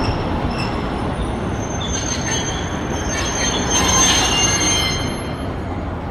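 Hiroshima Electric Railway streetcar running over the rails with a steady low rumble. Its steel wheels squeal high-pitched from about two seconds in, loudest in the middle, then fading.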